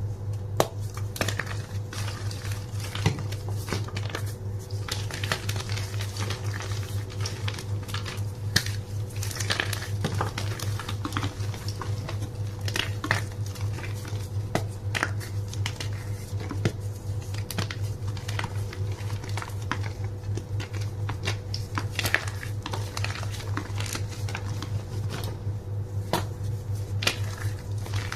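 Blocks of gym chalk being crushed and crumbled, giving a string of irregular crisp crunches and crackles. A steady low hum runs underneath.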